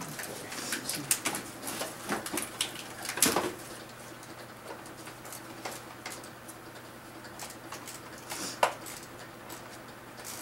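Irregular clicks and light metal taps from a socket ratchet and hand tools working a bolt loose on the fuse box. They come thick in the first few seconds, thin out, and there is one sharp click near the end.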